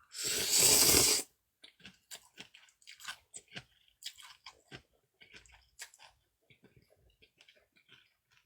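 Close-miked eating of naengmyeon cold noodles: a loud slurp lasting just over a second, then quiet wet chewing with many small clicks and smacks.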